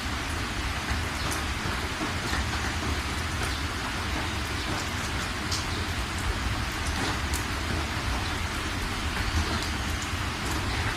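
Steady rain falling on surfaces, with scattered sharp drips and a continuous low rumble underneath.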